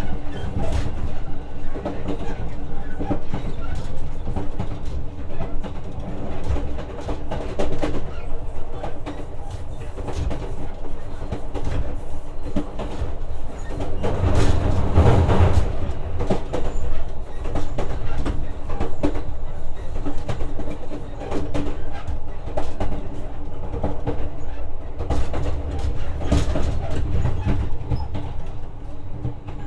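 Inside a JR West 125-series electric railcar running along the line: a steady low rumble of wheels on rail, a constant hum from the drive, and scattered clicks over the rail joints. The rumble swells louder for a couple of seconds around the middle.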